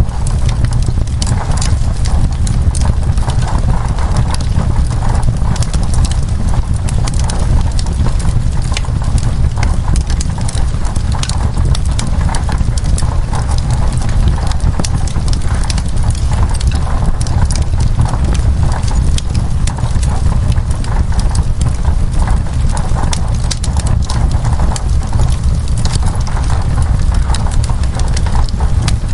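Wood fire crackling in a fireplace: dense, irregular sharp pops and snaps over a steady low rush, with rain on window glass mixed in.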